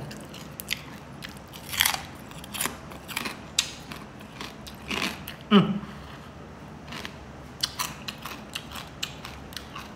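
Crispy pork back-fat chicharon being bitten and chewed close to the microphone: sharp, irregular crunches with wet chewing between them, loudest about two seconds in and again near the middle.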